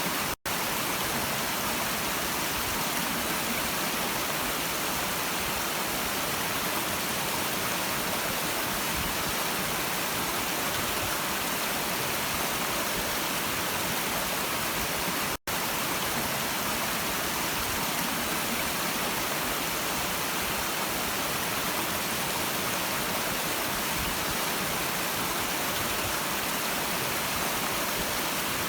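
Stream water rushing steadily, an even hiss. The sound cuts out for an instant twice, about half a second in and again midway.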